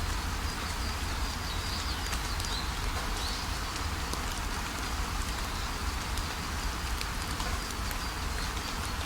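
Steady rush of a waterfall, with birds chirping faintly over it.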